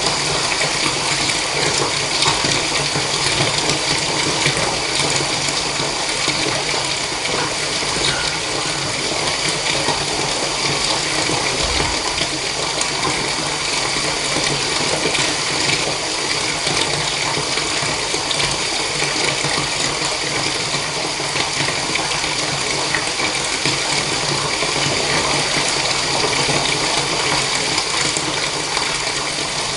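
Water running steadily from a tap and pouring into a bathtub.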